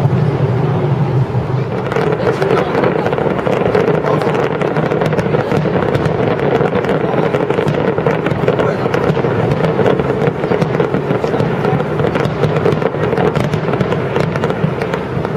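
Aerial fireworks shells bursting in quick succession, a dense, unbroken run of bangs and crackles over a steady background din.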